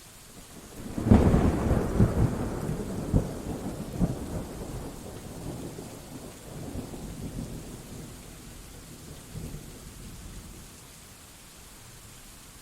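A thunderclap over steady rain. It breaks with a sharp crack about a second in, then rolls and rumbles with several smaller cracks, dying away over the next nine seconds or so until only the rain hiss is left.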